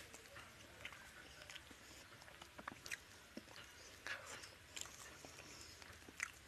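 A person chewing a mouthful of pomfret curry and rice, eaten by hand: faint, scattered wet mouth clicks and smacks.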